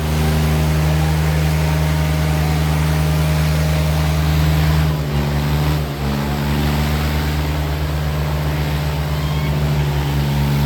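Diesel tractor engines running hard under load in a tractor tug-of-war pull, with a steady deep engine note. About five seconds in, the low end of the note begins to throb in a regular pulse.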